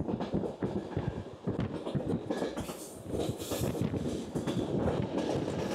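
Passenger train running along the track, heard through an open carriage window: wheels clattering on the rails. The sound dips briefly about two to three seconds in, then comes back louder with a brighter, hissing edge.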